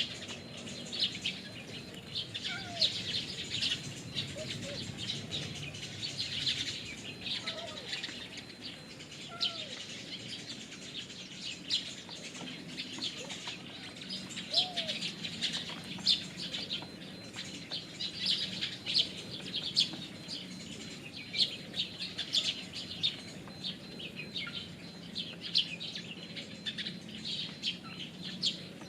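Birds chirping rapidly and continuously, with occasional low curved calls and wing flaps.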